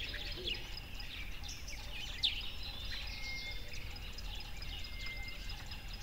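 Many birds chirping and calling together, with one louder chirp about two seconds in, over a steady low rumble.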